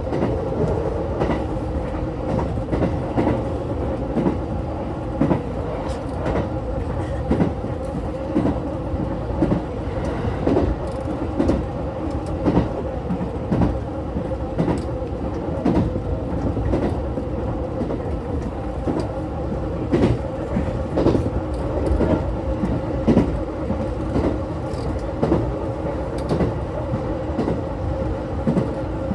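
JR West 227 series 1000 electric train running at speed, its wheels knocking over the rail joints in light, repeated clickety-clacks over a continuous rumble and a steady hum, heard from inside the front of the car.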